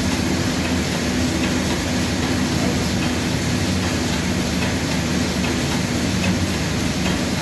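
Air bike's fan whirring steadily as it is pedalled and pushed hard.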